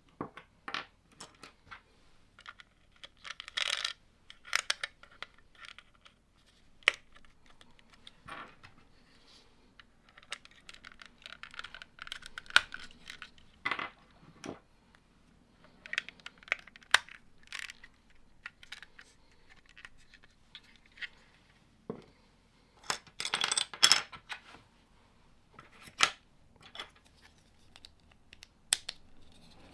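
Plastic Lego bricks clicking and clattering as pieces are picked out, handled and pressed together, in irregular single clicks with a few short bursts of rattling.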